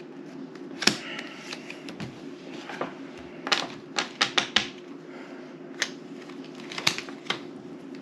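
Playing cards being slapped and laid down on a table: separate sharp clicks, with a quick run of five or so in the middle, over a steady low hum.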